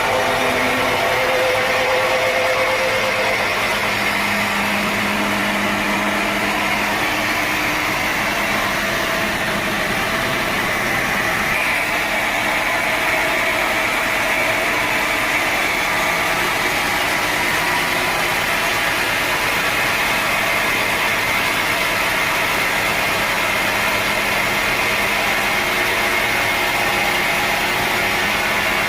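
Sawmill machinery running steadily with a constant motor drone and blade noise, unchanging throughout.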